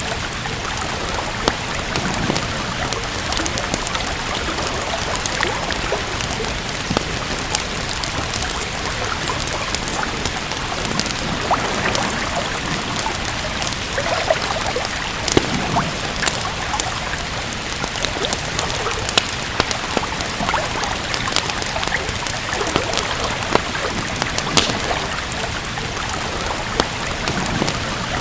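Steady rain falling, with the irregular snaps and pops of a crackling wood fire scattered throughout.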